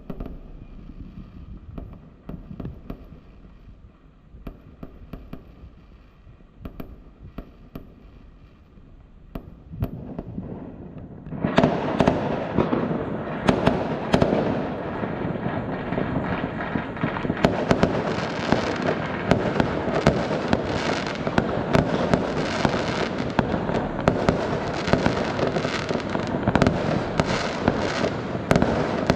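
Fireworks going off: scattered faint pops and cracks at first, then about eleven seconds in a loud, dense barrage of rapid crackling and bangs starts and keeps going without a break.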